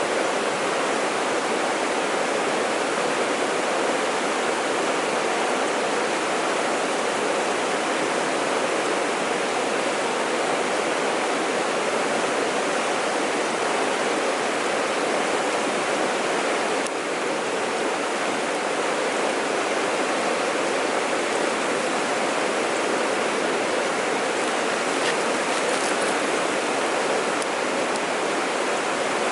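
Mountain stream water rushing over rocks, a steady even rush with no break; a slight dip in level about two-thirds of the way through.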